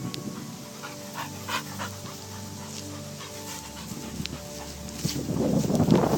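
A dog whining in long, held tones, with panting.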